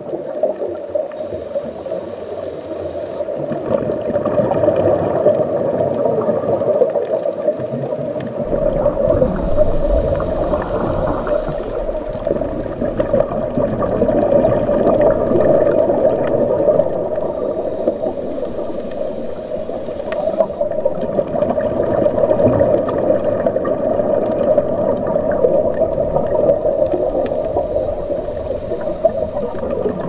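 Underwater ambience: a steady, muffled gurgling murmur, with a brighter hiss swelling in for a couple of seconds about every eight to nine seconds.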